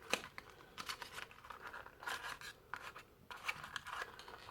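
Small product packaging being handled and worked open: a scattering of irregular clicks, scrapes and light tearing sounds.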